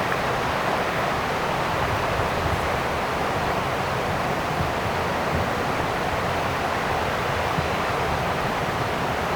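Steady rushing of river water, an even hiss with no breaks or distinct knocks.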